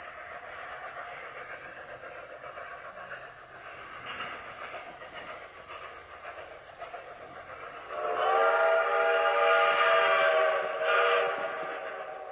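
A locomotive whistle sounds one long chord blast about two-thirds of the way in, then a short second blast, over a steady noise.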